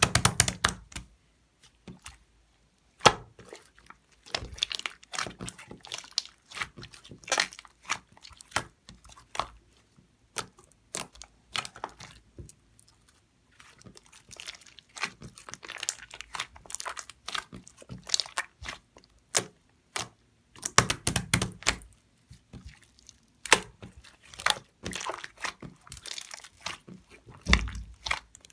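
Toy slime being kneaded and pressed by hand, giving irregular runs of sticky clicks, pops and crackles with short pauses between.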